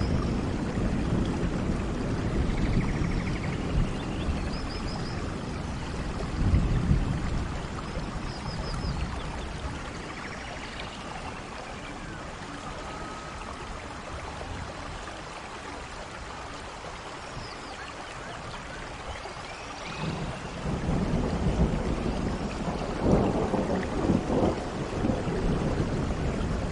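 Steady rain in a rainforest with rolling thunder, the rumbling heavy at first, easing off for a while in the middle, and building again near the end. Short high chirping calls sound now and then over the rain.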